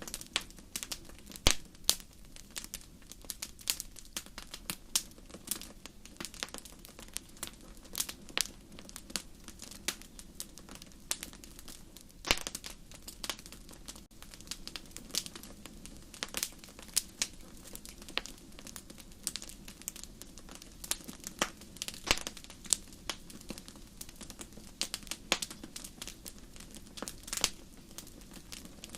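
Wood fire burning in a fireplace, with irregular sharp crackles and pops over a soft steady rush of flame.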